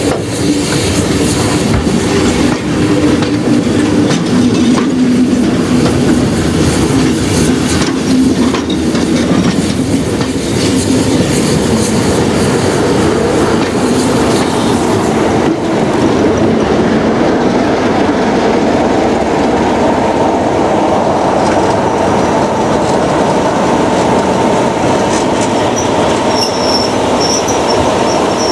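Heritage railway train running along the track: a steady rumble and clatter of wheels on rails, with some wheel squeal.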